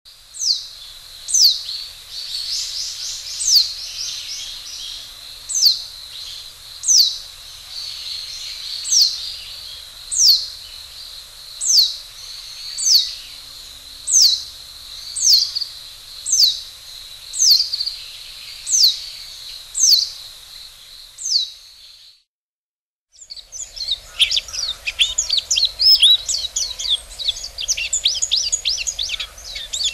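Bird calls: a single high note sweeping downward, repeated about once a second for some twenty seconds; then, after a brief moment of silence, a busy twittering of many high chirps.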